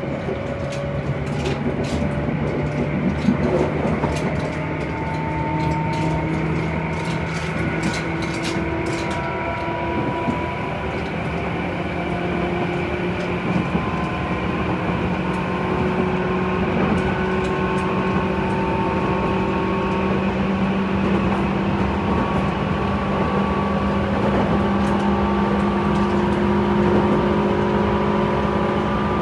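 Running noise heard inside a Tobu 10030 series electric train car: wheels rolling on the rails under a steady hum that slowly rises in pitch, with a run of sharp clicks in the first ten seconds or so.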